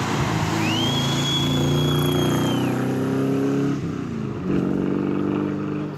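Engine of a classic Morgan open roadster pulling uphill, its note climbing slightly, then falling away a little before four seconds in and coming back about half a second later. A thin high whistle-like tone sounds for about two seconds near the start.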